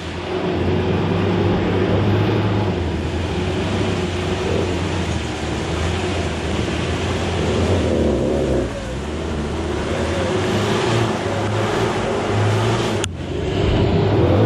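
Off-road vehicle's engine running under load, its note rising and falling as it climbs rough ground, with a brief drop about 13 seconds in.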